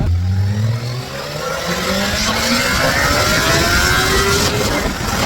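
A vehicle engine accelerating, its pitch climbing steadily for about four seconds.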